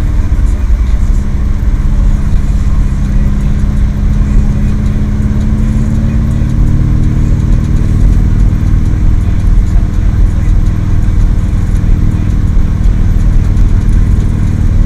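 Subaru WRX STI's turbocharged flat-four engine running under way, heard from inside the cabin over steady road and tyre noise on a snow-covered road. The engine note climbs gently over the first several seconds, then holds steady.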